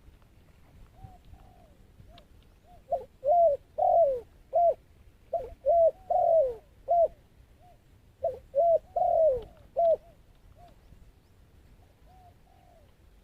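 Dove cooing: three loud phrases of short, arched coo notes about a second and a half each, with fainter coos before and after.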